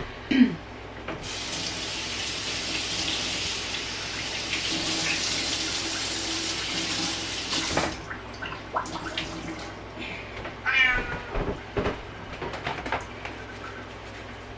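Kitchen tap running for about seven seconds, then stopping suddenly. Afterwards there are light clicks and knocks, and a cat meows once, about 11 seconds in.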